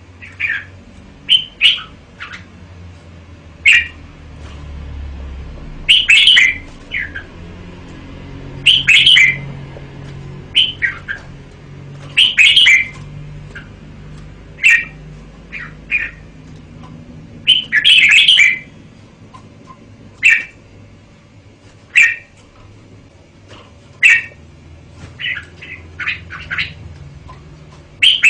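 Red-whiskered bulbul singing: short, loud warbled phrases repeated every one to two seconds.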